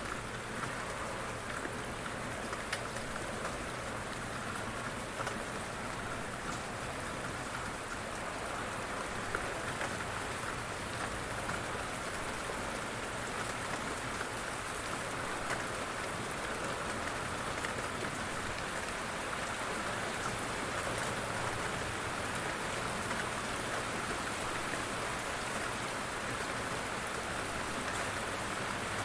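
Steady rain falling, with a few sharper drop ticks here and there.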